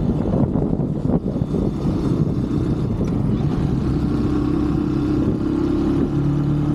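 125cc motorbike engine running under way, with a low rumble and wind noise. About four seconds in it settles into a steady note at constant revs.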